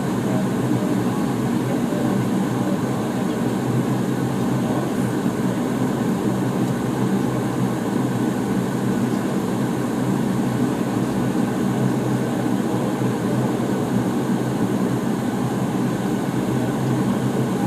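Dash 8 Q400's Pratt & Whitney PW150A turboprop engines running, heard from inside the cabin: a steady drone with a low hum from the propellers.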